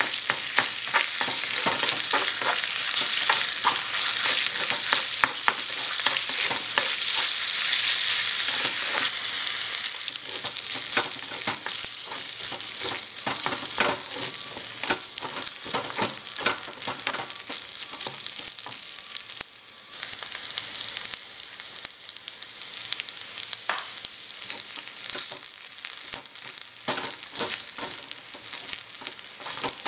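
Chicken and rice frying in a tiny metal pan, with a small wooden spatula stirring and scraping it in frequent light clicks and scrapes. The sizzle is strongest at first, eases off after about ten seconds, and drops again a little before twenty.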